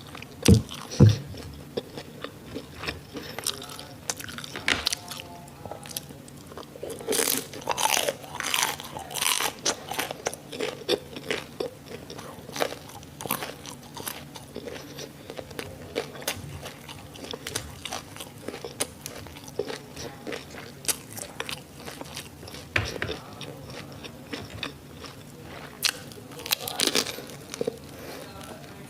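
Close-miked biting and chewing of crispy fried sausage and onion: repeated sharp crunches and wet mouth clicks, with the densest, loudest crunching about a quarter of the way in and again near the end.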